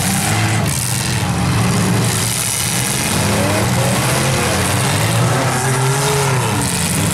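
Several demolition derby cars' engines revving hard, their pitch rising and falling as the cars drive and push against each other on the dirt.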